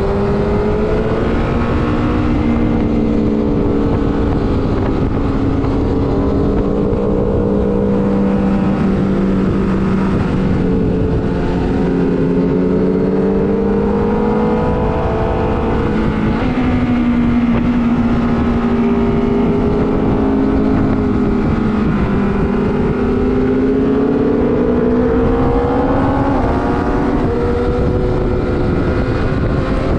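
Sport motorcycle engine under way at speed, its pitch rising and falling slowly several times as the throttle is opened and rolled off, over a steady rush of wind on the microphone.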